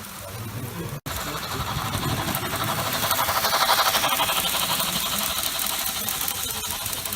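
Märklin model train running past close by, a fast, fine clatter of wheels and motor that swells to its loudest a little past the middle and then eases away. Near the start the sound drops out for a split second.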